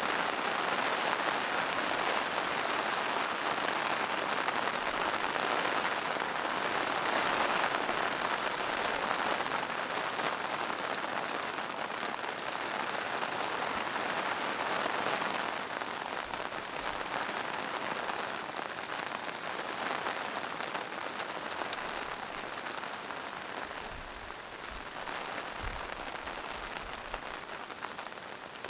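Steady rain falling on forest foliage and mossy rocks, an even hiss of many drops, easing slightly near the end.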